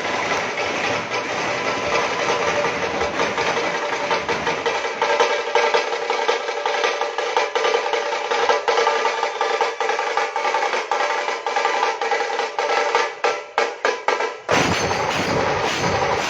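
Music with fast, dense drumming over a steady pitched drone. The drumming thins to separate strokes and then cuts abruptly to a different sound near the end.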